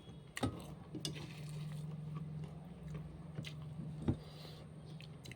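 Eating sounds at a meal of rice: a few short soft clicks and faint mouth noises over a low steady hum.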